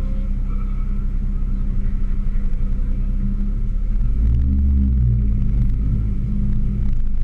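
Honda Civic hatchback's engine running at idle with a steady low rumble and a pulsing beat. About four seconds in it grows louder and deeper as the car pulls forward under light throttle.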